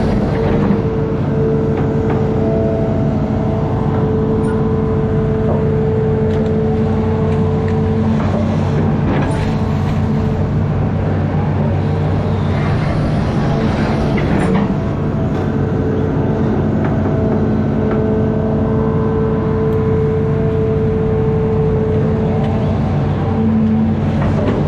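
Amphibious excavator's diesel engine running steadily under load, with a higher whine from the hydraulics that comes in for several seconds at a time and drops away, and a few knocks from the machine working.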